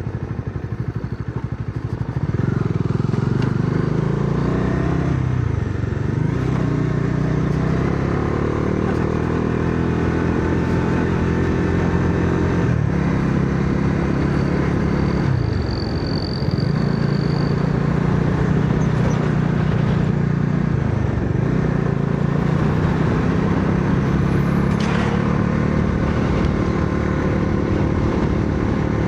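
Bajaj Dominar 400's single-cylinder engine being ridden hard. The engine note climbs as the revs rise and dips briefly several times, the pattern of throttle changes and gear shifts. It gets louder about two seconds in.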